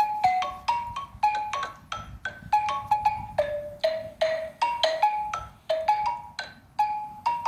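Xylophone played with mallets: a simple melody of single struck notes, about three a second, each ringing briefly and stepping up and down within a narrow range.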